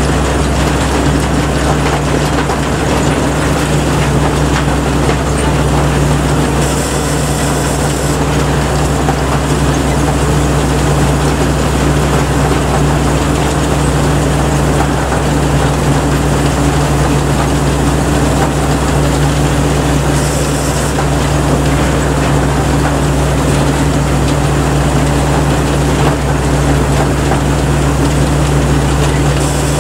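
Kaset Pattana rice combine harvester running steadily, its engine and machinery giving a constant loud drone with a deep, even hum. Three short high hisses break in, about a quarter of the way in, two-thirds in, and at the very end.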